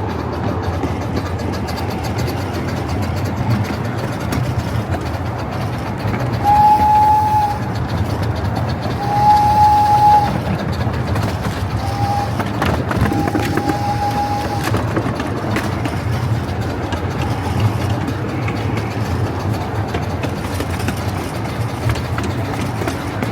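Steam locomotive's whistle blowing the long-long-short-long grade-crossing signal, four single-pitch blasts, over the steady low rumble of the train running.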